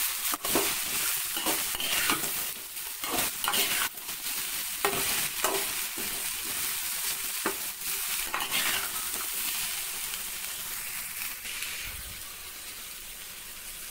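Chopped okra frying in a little oil in a metal pan, sizzling, while a perforated metal skimmer stirs and scrapes through it in repeated strokes. The stirring stops about eleven seconds in, leaving a steady sizzle.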